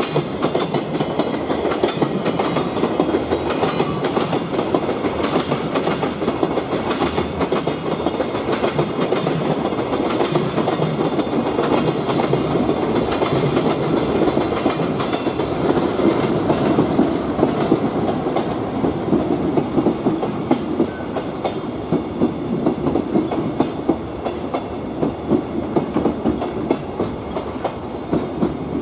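Freight train of JR Freight Koki container flatcars rolling past, the wheels clattering steadily over the rail joints. Near the end the clatter eases into more separate, spaced clicks.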